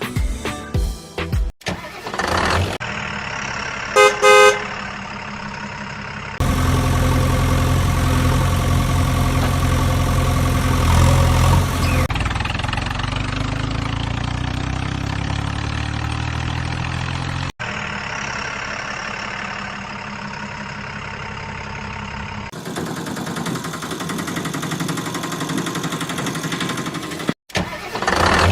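Vehicle sound effects spliced together: a short loud horn honk about four seconds in, then heavy engine running in several separate stretches that start and stop abruptly at hard cuts.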